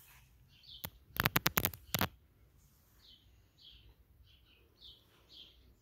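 Small birds chirping, short high calls repeated every fraction of a second. About a second in, a quick run of sharp clicks or knocks, the loudest sound.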